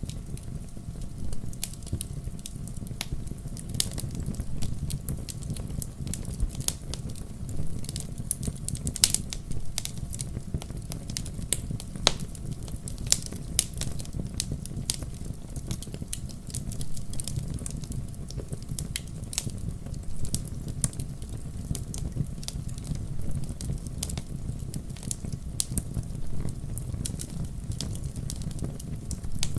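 Wood campfire crackling: irregular sharp snaps and pops over a steady low sound of burning, with a few louder pops in the middle.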